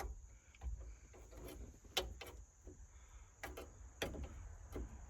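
Scattered clicks and knocks with some rubbing: a replacement turn signal switch being pushed and worked down into a 1971 Chevy C10 steering column, where it still binds and will not seat low enough on one side.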